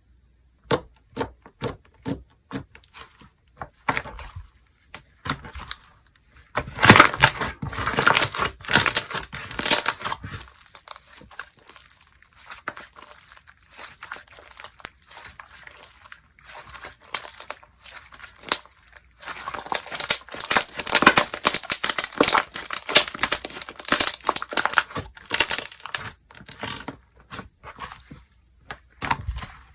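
Slime being squeezed, poked and stretched by hand, making sharp popping clicks. Two longer stretches of dense crackling come as it is pressed and worked.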